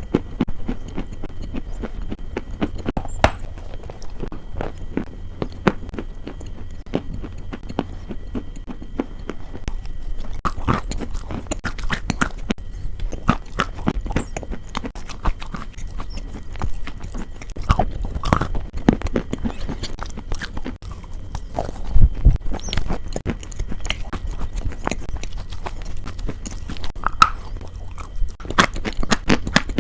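Close-miked chewing of crunchy food: a dense, irregular run of crisp crunches and crackles. A faint steady high tone sits under much of it.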